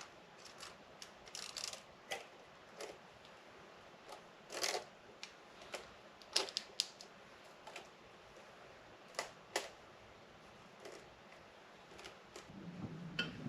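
Irregular light clicks and taps as a multi-layer steel LS9 head gasket is handled and set down onto the engine block over its locating dowels.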